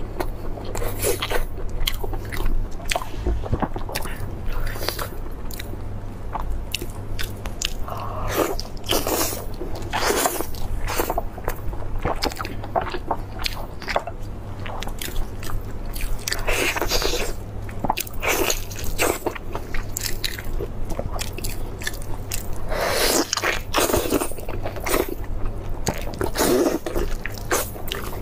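Close-miked biting and chewing of braised beef steak: irregular mouth and bite sounds in quick succession, with no speech.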